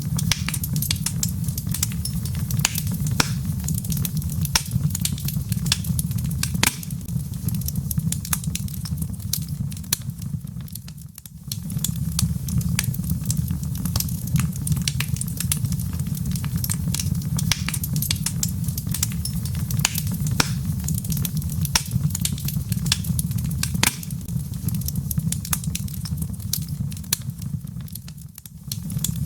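Wood logs burning in a fireplace, crackling with frequent sharp pops over a low, steady rumble of flame. The sound dips briefly about 11 seconds in and again near the end.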